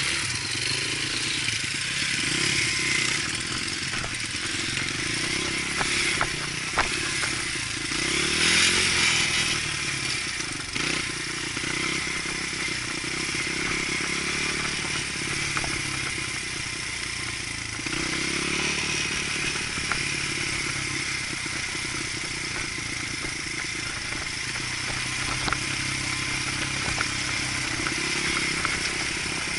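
Dirt bike engine running under way on a trail, the throttle rising and falling with a clear rev-up about a third of the way in, with scattered knocks and clatter from the bike over rough ground.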